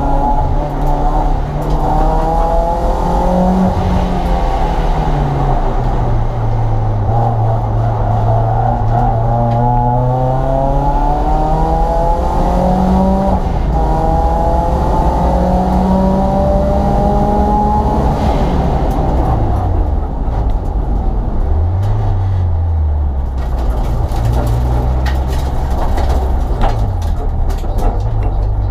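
Renault Twingo sprint car's engine heard inside its stripped, roll-caged cabin, revving hard up through the gears, the pitch climbing and dropping back at each shift. After that it falls away as the car slows, with a few sharp taps near the end.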